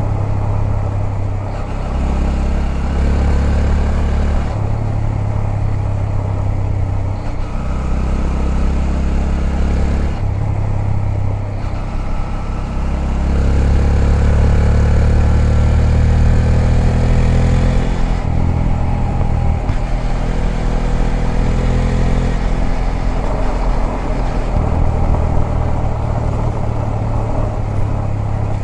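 Honda Grom's 125 cc single-cylinder four-stroke engine running under way, with the throttle opening and easing off every few seconds and the pitch rising as it accelerates. A steady rush of wind and road noise runs underneath.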